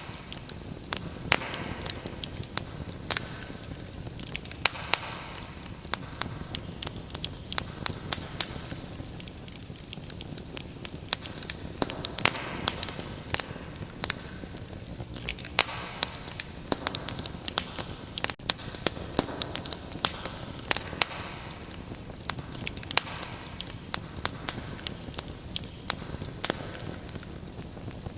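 Fire crackling in a fireplace: frequent irregular sharp pops and snaps over a steady low hiss and rumble of the flames.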